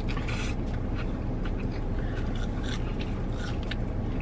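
Close-up eating sounds: mouths chewing burger and cheese-sauced fries, with small wet clicks and smacks scattered through, over a steady low hum.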